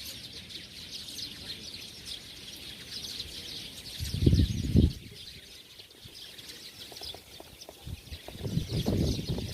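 Many small birds chirping and twittering together in a dense, unbroken chatter. Two loud low rumbles break in about four seconds in and again near the end.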